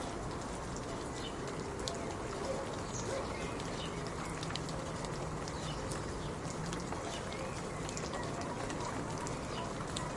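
Steady rain falling, with many individual drops ticking close by over a continuous hiss.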